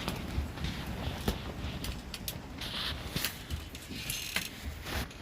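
Wind buffeting the microphone as a steady low rumble, with irregular clicks and rattles throughout and a short rustling hiss a little under three seconds in.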